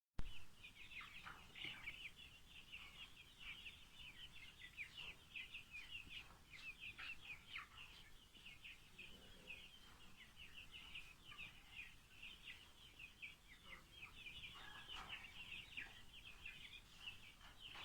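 A flock of chickens calling: a faint, dense, continuous chorus of short high chirps, many of them falling in pitch.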